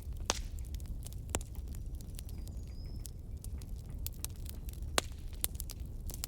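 Wood fire crackling: a steady scatter of small sharp pops over a low rumble, with a few louder pops near the start, about a second and a half in, and about five seconds in.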